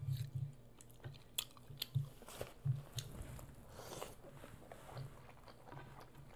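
A person chewing a mouthful of birria ramen close to the microphone: irregular wet mouth clicks and soft low thumps, with a few crunches.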